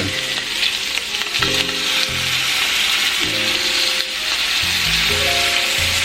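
Lobster pieces sizzling steadily in hot butter in a pan, over background music with low, changing notes.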